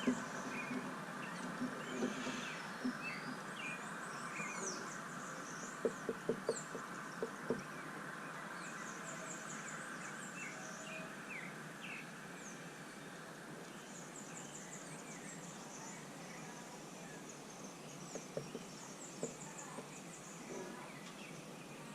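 Small birds at a feeder chirping and twittering with many short, high calls and trills. About six seconds in comes a quick run of five sharp taps.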